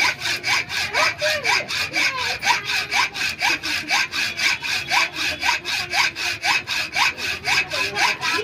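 Hand saw cutting through the riveted end of a motorcycle rear shock absorber's steel rod in rapid, even strokes, with a short rising squeak about twice a second.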